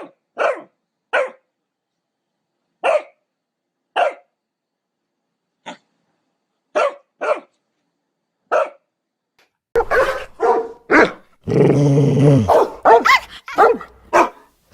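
Dog barking: about nine single, sharp barks with clean silent gaps between them, then from about ten seconds in a busier, noisier run of rapid barks that overlap one another.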